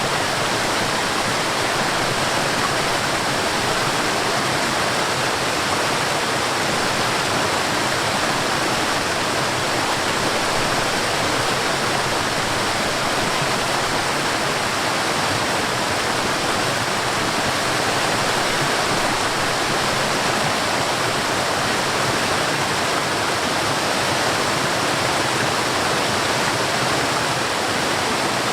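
Forest waterfall: water falling and rushing in a steady, even roar with no breaks.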